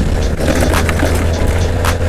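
Wind rumble and tyre noise from riding an electric motorcycle on wet roads in the rain, with a faint steady whine and scattered sharp ticks.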